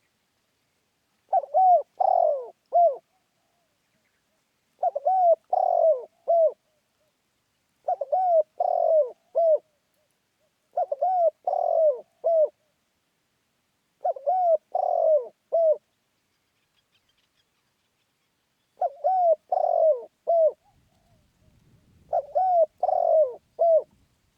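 Spotted dove cooing: seven repeated phrases of three or four low, rounded coo notes each, coming about every three seconds with a longer pause near the middle.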